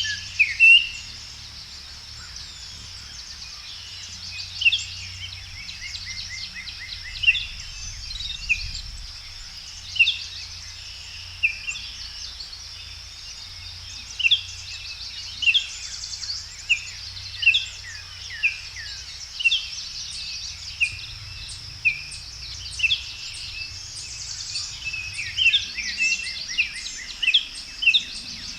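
Songbirds singing outdoors: short, mostly downward-sweeping chirps every second or so, over a steady high-pitched drone.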